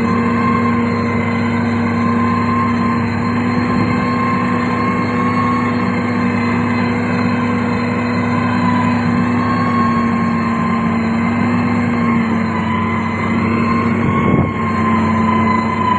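Heavy construction machine's diesel engine running steadily under load, with a constant hum and a brief dip in level near the end.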